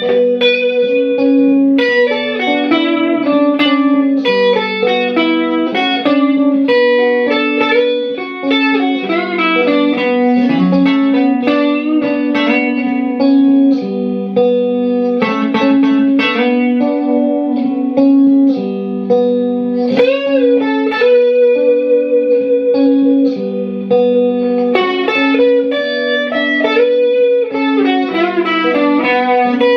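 Harley Benton ST-62 Strat-style electric guitar playing a melodic passage of held notes and chords, with string bends and vibrato on some notes.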